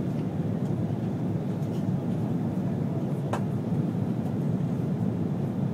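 Steady low rumble of a Singapore Airlines Airbus A330-300 on its approach to land, with one brief sharp click about three seconds in.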